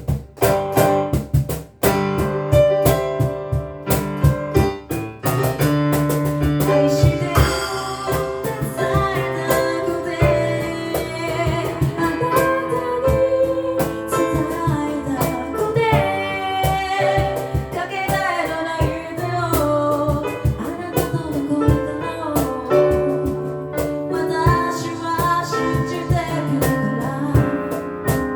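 A cappella group singing a slow pop song in harmony, with a sung low bass line and regular vocal-percussion beats underneath.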